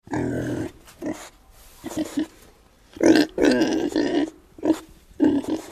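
Wild boar grunting, a series of about six short and longer grunts.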